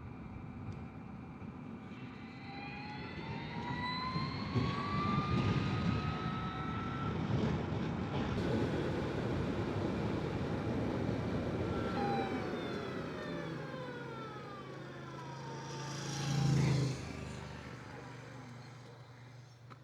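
Energica Experia electric motorcycle riding: its motor whine rises in pitch as it accelerates, with wind and road noise, and falls away as it slows down. There is a short louder low bump near the end.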